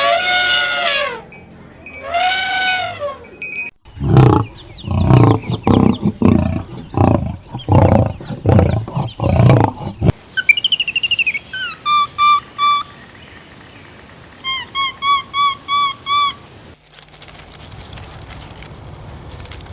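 A sequence of different animal calls, edited one after another: a few drawn-out arching calls, then a run of short rapid calls, then a string of short repeated chirping notes, then a faint outdoor hiss.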